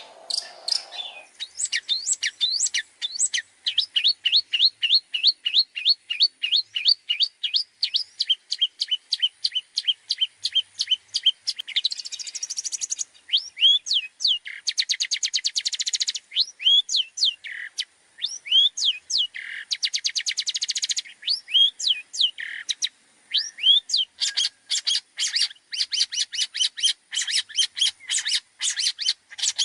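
Long-tailed shrike (cendet) singing a varied song full of mimicked phrases: a long run of quick, repeated sweeping notes that slowly drop in pitch, then harsh chattering bursts alternating with sharp whistled calls.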